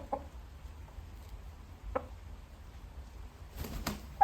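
A few short, soft clucks from chickens at the start and about two seconds in, with a couple of brief scuffs near the end over a low steady rumble.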